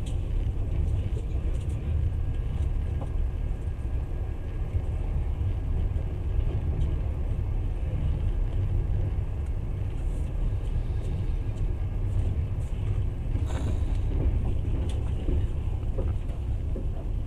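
Steady low rumble of a moving train, heard from inside the carriage, with a few faint clicks and a short hiss about two-thirds of the way through.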